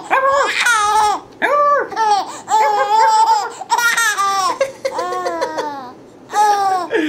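Six-month-old baby giggling wildly while being tickled, a run of about nine short, high-pitched bursts with brief breaths between them.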